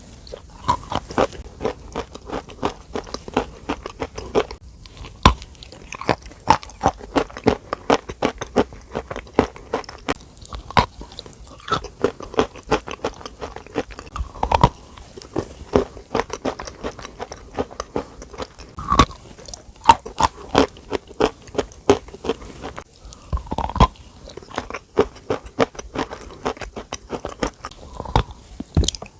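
Close-miked crisp crunching and crackling, many small clicks a second, with a few heavier thuds now and then.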